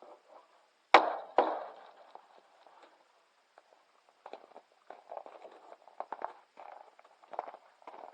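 Two sharp knocks half a second apart about a second in, the loudest sounds here, followed by a run of uneven footsteps.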